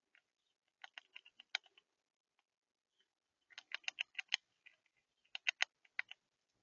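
A bird pecking seed at a feeder, its beak tapping in three quick runs of sharp clicks.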